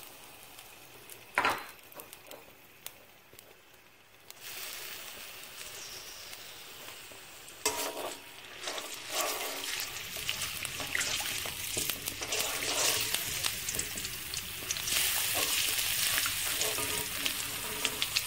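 Ginger-garlic paste sizzling in hot oil in a karahi, stirred and scraped with a slotted spatula. A single knock comes about a second in, the sizzling starts a few seconds in, and it grows louder near the end.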